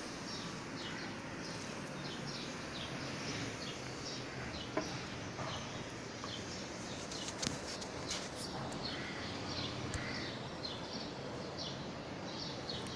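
Small birds chirping over and over in the background over a steady hiss, with a few faint clicks.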